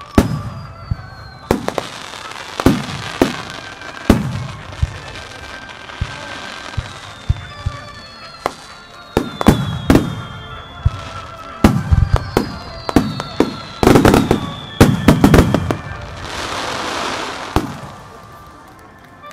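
Fireworks shells bursting in a rapid starmine barrage: a string of sharp bangs with echoing tails, coming thickest in the second half, with a two-second hiss near the end. Music with held notes plays faintly underneath.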